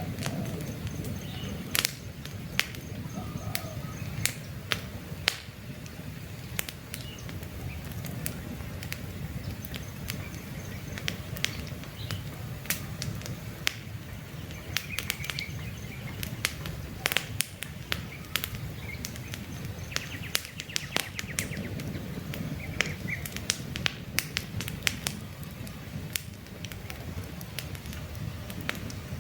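Campfire burning, with a steady low rumble of flames and frequent sharp crackles and pops from the burning wood. Faint bird chirps sound now and then.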